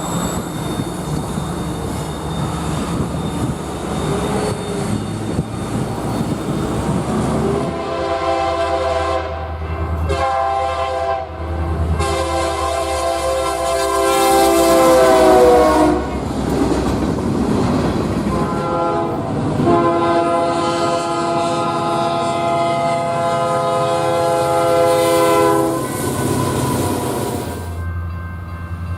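A train running with a steady rumble, then a locomotive's multi-tone air horn sounds a chord in long blasts from about eight seconds in, its pitch sagging slightly near the end of the first blast. The horn sounds again from about nineteen to twenty-six seconds.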